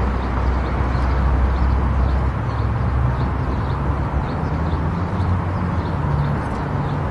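Car driving on the road: steady tyre and road noise with a low engine drone, which shifts higher about two seconds in.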